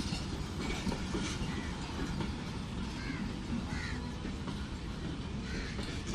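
Pak Business Express passenger train pulling out of a station, its coaches rolling by with a steady rumble of wheels on rail and a scatter of small clicks. A couple of short, high calls sound over it near the middle.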